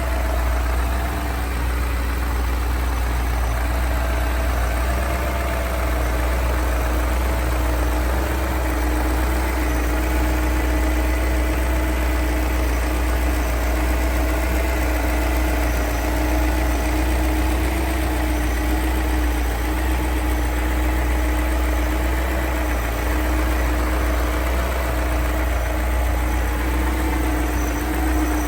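2002 BMW M5's 4.9-litre V8 idling steadily shortly after a cold start, with an even, unchanging note.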